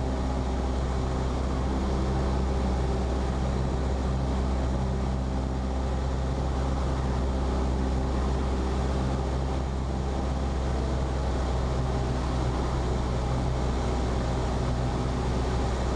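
Cessna 172P's Lycoming O-320 four-cylinder piston engine running steadily at low power, a constant droning hum with no change in speed.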